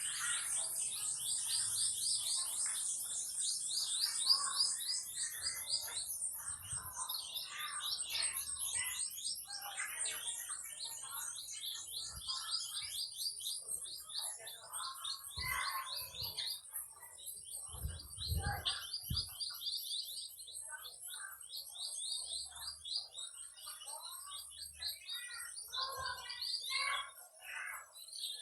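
Several birds chirping and calling: a rapid, continuous series of high chirps, with varied shorter calls at lower pitch woven through. A brief low rumble comes about 18 seconds in.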